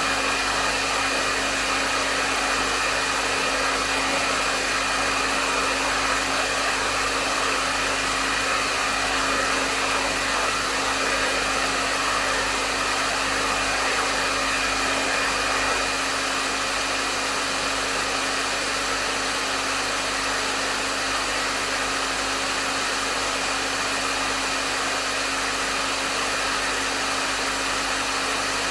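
Hair dryer running steadily: a constant rush of airflow with a faint motor hum beneath it.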